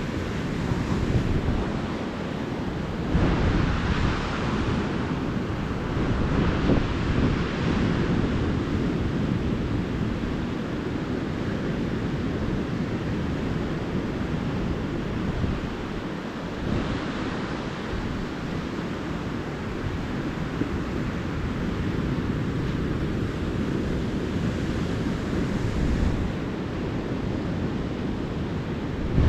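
Ocean surf breaking and washing up the beach, with swells of brighter hiss a few seconds apart over a steady low rumble of wind on the microphone.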